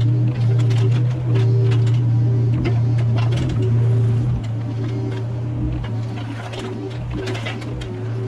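Mini excavator's engine running steadily with a hydraulic whine that comes and goes, and scattered knocks and scrapes from the machine working; it gets a little quieter just over four seconds in.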